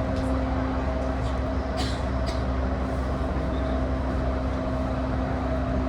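Running sound heard inside a JR E235-1000 series electric motor car travelling at a steady speed. A steady traction motor and gear hum holds one pitch over the rumble of the wheels on the rails, with a couple of sharp clicks about two seconds in.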